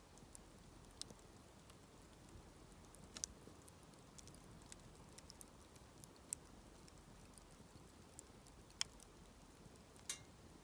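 Mixed-hardwood campfire crackling faintly: irregular sharp pops and snaps from the burning firewood, a few louder snaps scattered through, over a quiet background.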